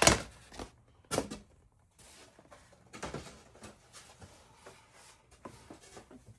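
Craft knife being worked through foam board: a sharp knock at the start and another about a second in, then faint scratchy crackling of the blade through the board.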